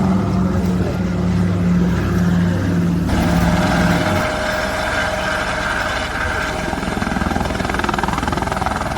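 Helicopter running: a steady low engine and rotor hum, with a higher turbine whine that comes in about three seconds in.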